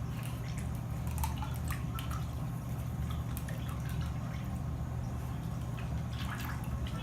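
Dry ice bubbling in a sink of water and dish soap, with scattered small pops and drips over a steady low hum.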